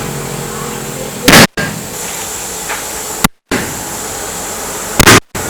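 Two loud, sharp impacts about four seconds apart over steady background noise, in keeping with hammer blows on a truck wheel during tyre work.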